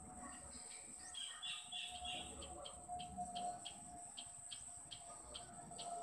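Small bird chirping: a quick run of high notes, then a steady series of short, sharp chirps, two or three a second.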